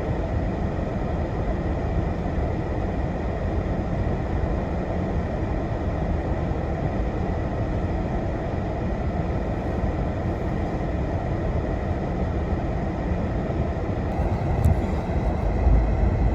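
Steady road and engine noise of a car driving on the highway, heard from inside the cabin, with a deep low rumble and a hiss of tyres on the road.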